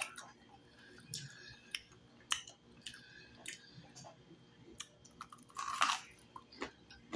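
Close-up mouth sounds of eating deep-fried turtle neck meat: scattered wet clicks and lip smacks while chewing, with one louder noisy burst about six seconds in as meat is bitten off the bone.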